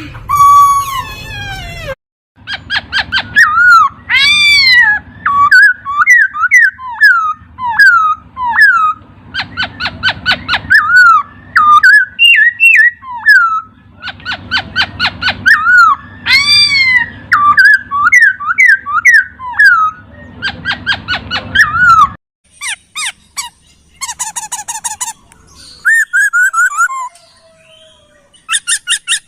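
Laughingthrush (poksay) singing loud, varied whistled phrases: fast runs of repeated notes alternating with rising-and-falling whistles. There is a brief break about two seconds in.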